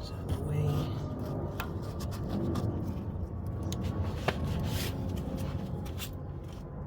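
Hands and a tool working at plastic wheel arch trim: scattered sharp clicks and short rubbing scrapes, with a steady low hum underneath.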